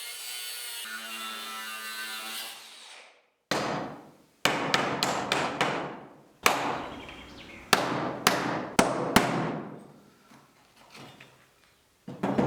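A steady pitched rasping tool sound on wood for the first few seconds, fading out. It is followed by about a dozen sharp hammer blows on wood in uneven groups, giving way to lighter knocks near the end.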